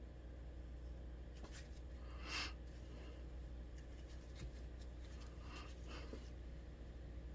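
A few short strokes of a painting tool across mineral paper, in a cluster about a second and a half in and another near six seconds, over a steady low hum.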